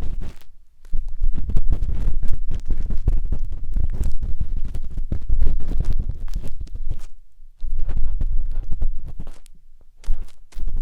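A wooden matchstick scraping and rubbing inside the silicone ear of a 3Dio binaural microphone, heard as loud, close, deep scratching with brief pauses about half a second in, around seven seconds and near the end.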